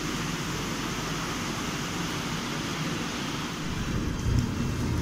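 Steady rushing noise of a train in the rain, with a low rumble swelling about four seconds in.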